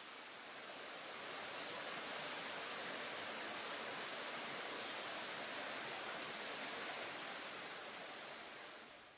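Waterfall rushing, a steady hiss of falling water that fades out near the end.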